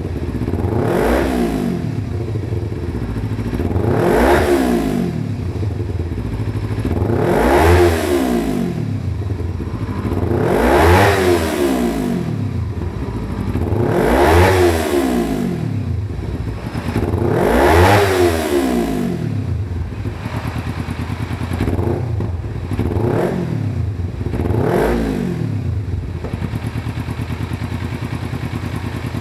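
Kawasaki Ninja 250FI parallel-twin revved repeatedly through a ProSpeed Shark Black aftermarket exhaust. Six throttle blips about every three seconds, each rising sharply in pitch and falling back to a steady idle, then two shorter, smaller blips before it settles at idle near the end.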